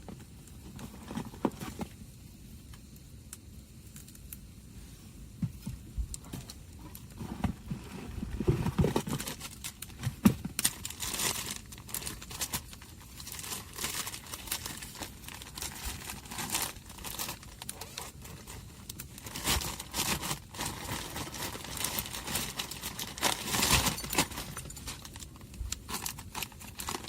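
Irregular crinkling and rustling of material being handled close by, with a few low knocks about eight to ten seconds in; the crinkling grows busier from about ten seconds in.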